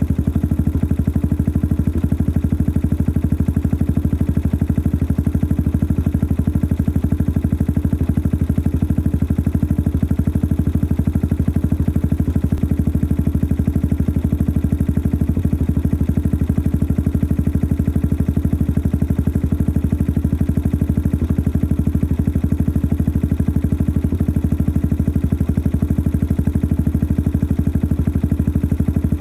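Yamaha XT 600 43F's single-cylinder four-stroke engine idling steadily through its modified stock exhaust, a noisy engine with an even, unchanging beat.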